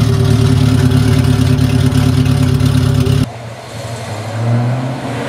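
Honda four-cylinder engine idling steadily, running rich at about a 10:1 air-fuel ratio just after start-up. About three seconds in it cuts off suddenly to a quieter, lower engine sound that swells briefly.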